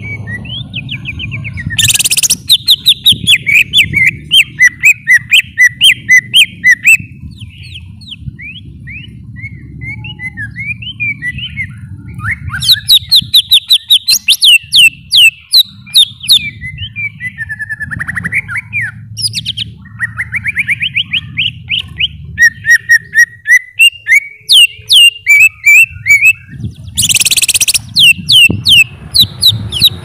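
Green leafbird (cucak ijo) singing: phrases of fast, sharp chirps and trills with short pauses between them. There are harsh rasping notes about two seconds in and again near the end, over a steady low background rumble.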